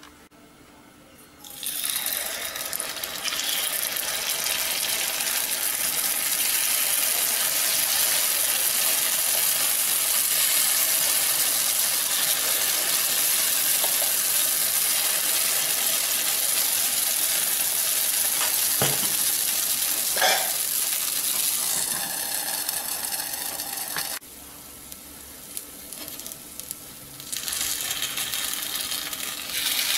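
Kodo millet paniyaram batter sizzling steadily in hot oil in the cups of a kuzhi paniyaram pan, with two light knocks partway through. The sizzle drops away for a few seconds near the end, then comes back.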